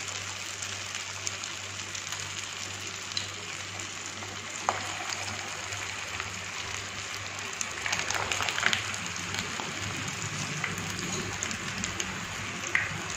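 Sabudana vadas deep-frying in hot oil in a pan: a steady sizzle with a few louder crackles along the way, as more patties go into the oil.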